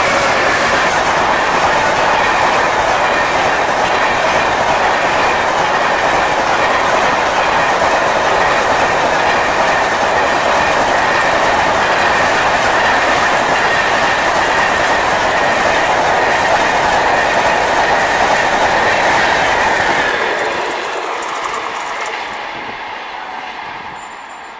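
Coaches of an Indian Railways express passenger train passing close by at speed: a loud, steady rolling noise of wheels on rail that fades from about twenty seconds in as the last coach pulls away.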